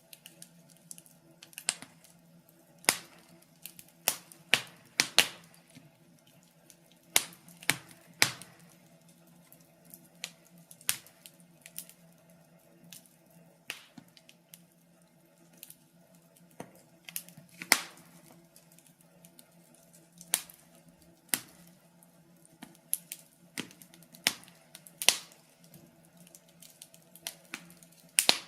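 Wood fire burning in a fireplace, crackling with irregular sharp pops about once a second, some much louder than others, over a faint steady low hum.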